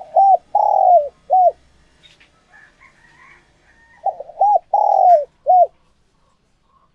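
Spotted dove cooing: two phrases a few seconds apart, each of four low notes, with a long drawn-out third note. Faint, higher chirps from small birds come between the phrases.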